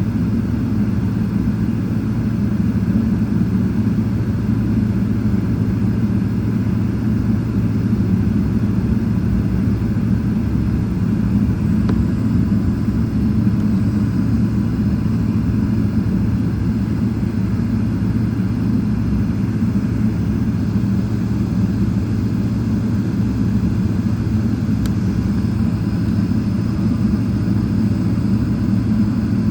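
Boeing 777-300ER's GE90 engines and airflow: a steady, unchanging low rumble with a constant low hum.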